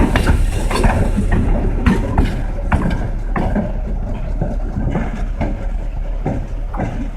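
Two EMD GP9 diesel locomotives running light. Their wheels knock in an uneven clatter, typical of rail joints, over a steady low diesel rumble.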